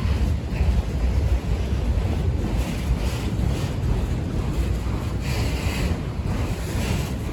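Wind buffeting the microphone: a heavy, uneven low rumble with brief hissy gusts, the strongest about five seconds in.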